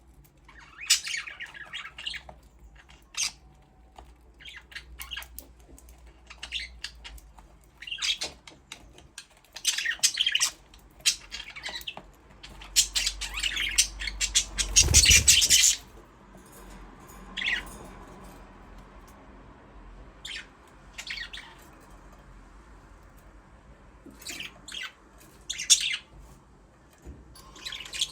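Budgerigars chirping and squawking in short, scattered calls, with a louder, busier burst about halfway through that ends with a low thump.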